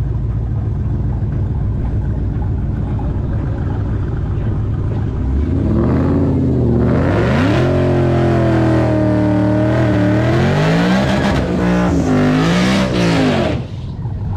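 A drag car's V8 engine idling with a low rumble, then revving hard through a burnout for about eight seconds, its pitch rising and dipping as the tyres spin, before it drops off suddenly near the end.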